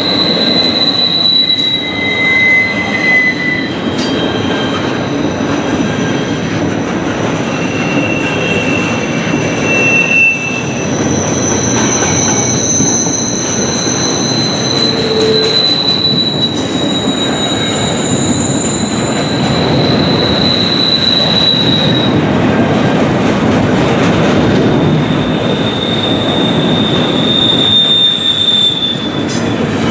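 Cars of a long intermodal freight train rolling past with a steady loud rumble, while their steel wheels squeal in thin high-pitched tones that come and go every few seconds.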